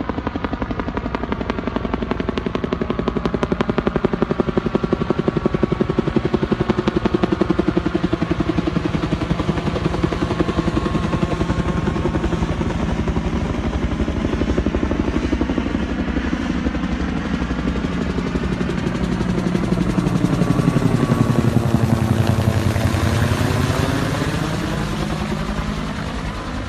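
Bell UH helicopter in flight, its main rotor beating in a fast steady pulse over the turbine whine. It grows loudest about four fifths of the way through as it passes close, then fades as it moves away.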